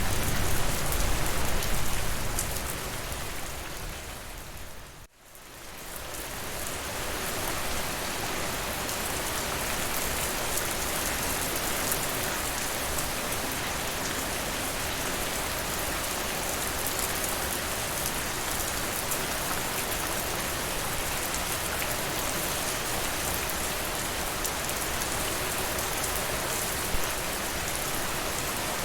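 Steady rain, an even hiss of drops. About five seconds in it fades almost to nothing and swells back up, then carries on steadily.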